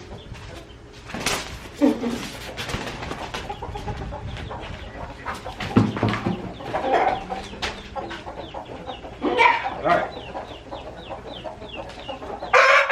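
Malaysian chickens clucking and squawking, with a few sharp knocks and rustles among them and a run of short, falling peeps. Near the end a loud rooster call breaks in.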